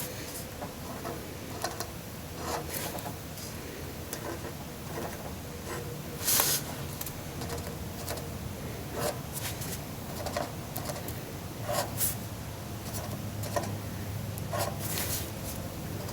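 Ink pen drawing small marks on construction paper: short scratchy strokes at irregular intervals, with occasional paper rustle.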